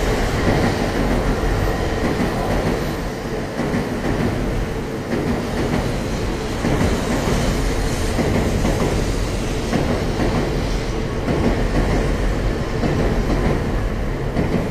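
A train running past on the rails, making a steady, fairly loud noise that goes on without a break.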